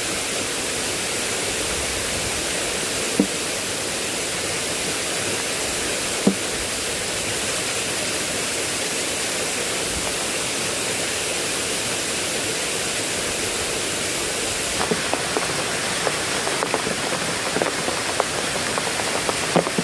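Heavy rain falling steadily as an even hiss, with single louder drops striking close by twice, then many small drop impacts in the last few seconds.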